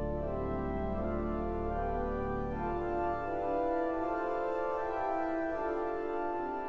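Slow organ music of held chords that move from one to the next; the low bass notes drop out just under three seconds in.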